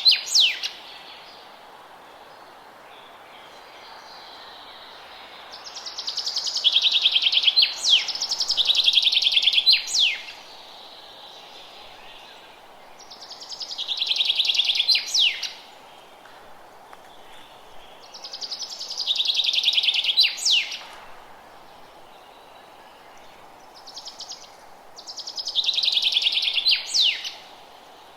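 A songbird singing the same song over and over, about every six seconds: a fast, high trill a couple of seconds long that ends in a few sharp downward-sliding notes. A steady hiss of background noise lies underneath.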